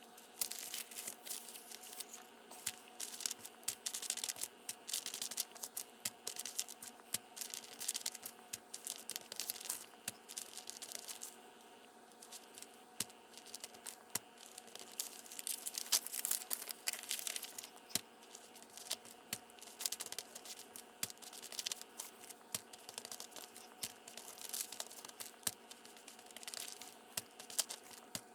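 Paper being handled and rubbed down by hand: irregular rustling, crinkling and scraping strokes, over a faint steady hum.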